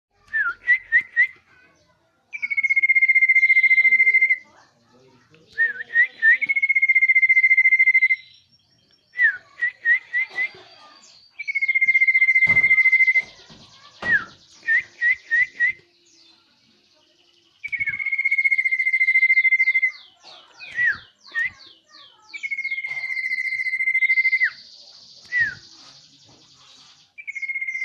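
Common iora (cipoh) singing: a few quick short notes, then a long steady whistle held for about two seconds, repeated about seven times, with higher chirps and trills between the phrases.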